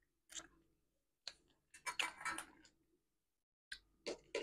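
Chewing with the mouth close to the microphone: a few scattered clusters of short, soft mouth clicks, with silence between them.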